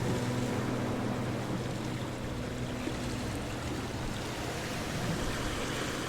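Ocean waves washing ashore as a steady rushing noise, swelling slightly near the end. A sustained plucked guitar chord fades away during the first half.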